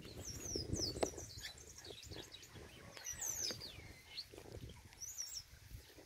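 Chopi blackbird (pássaro-preto) singing: a string of whistled notes and quick slurs, several sweeping steeply down in pitch.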